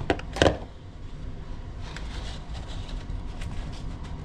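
Snow being handled into a bowl: a few knocks and a loud thump about half a second in as the bowl is handled, then soft scraping of snow being scooped and packed, with small clicks.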